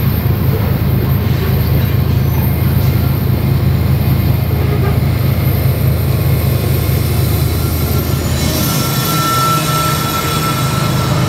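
Freight train rolling past with a loud, steady low rumble. About nine seconds in a hiss rises and a single high wheel squeal sounds for a second or two.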